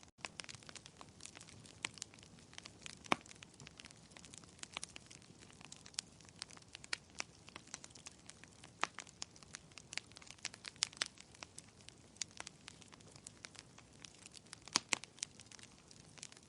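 Wood fire crackling in a fireplace: irregular sharp pops and snaps, some louder than others, over a soft steady hiss, after a split-second dropout at the very start.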